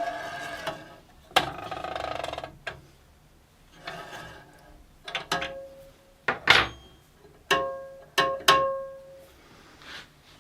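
Sharp metallic clicks and knocks from a small hobby bandsaw's newly fitted blade and wheels being worked by hand under tension, several of them leaving a short ringing tone from the tensioned steel blade. There is a rattling, scraping stretch in the first few seconds, then separate clicks with ringing later on.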